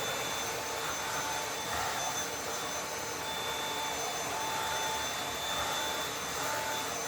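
Dyson cordless vacuum cleaner running steadily: a constant high motor whine over a hiss of rushing air.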